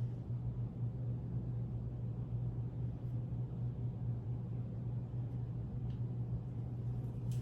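Steady low hum with a faint rumble beneath it, and a few faint ticks.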